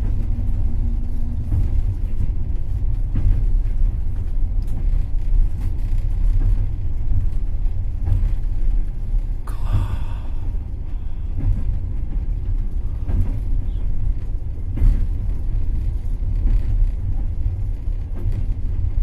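A passenger train coach running on the rails, heard from inside the carriage: a steady low rumble with the clack of the wheels over rail joints now and then. About ten seconds in, a brief hiss rises over the rumble.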